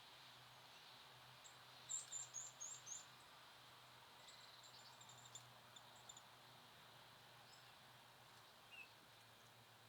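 Small birds calling: a quick run of about five high, short chirps about two seconds in, then scattered faint chirps and one lower note near the end, over a faint steady outdoor hiss.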